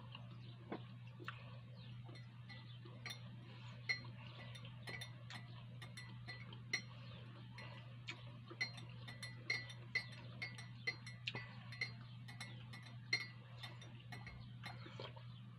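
Close-miked chewing with irregular wet mouth clicks and smacks, one or two a second, over a low steady hum.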